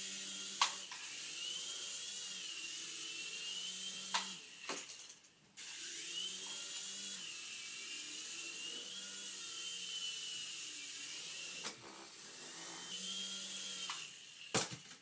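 Toy RC helicopter's small electric rotor motor whirring with a wavering whine as the throttle changes. It cuts out for about a second around five seconds in and spins up again, with a few sharp clicks along the way.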